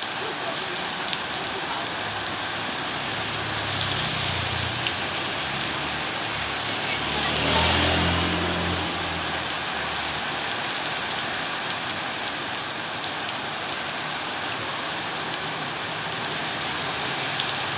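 Steady rain falling and pattering on surfaces. A low rumble swells and fades about halfway through.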